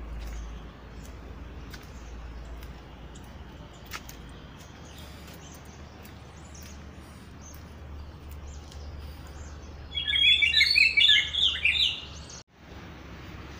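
Birds chirping in garden trees: scattered faint high chirps, then a loud burst of rapid chirping lasting about two seconds, starting about ten seconds in.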